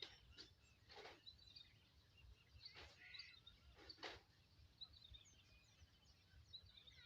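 Faint small birds chirping, with three brief soft noisy sounds about one, three and four seconds in.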